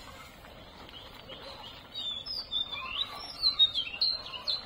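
Small birds chirping, starting about two seconds in as a busy run of short, quickly sliding high calls.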